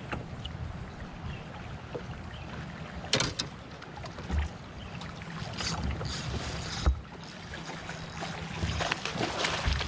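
Wind rumbling on the microphone and water sounds around a fishing kayak, with a few short knocks and clicks scattered through, one near the start of the second half.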